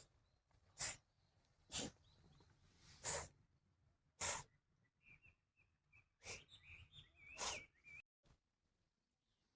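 Six short, sharp, hiss-like bursts at irregular intervals of about one to two seconds, with faint bird chirps in between in the second half.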